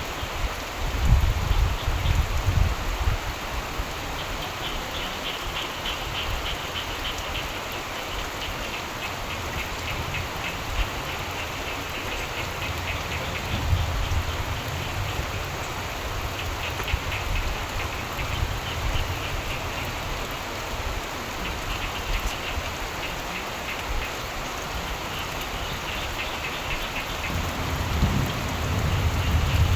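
Steady rain falling, with frogs calling in rapid pulsing trains that come and go. Low rumbles of thunder sound near the start and around the middle, and grow again near the end.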